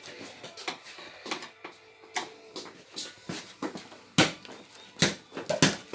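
A series of irregular sharp knocks and clicks, the loudest two about four and five seconds in.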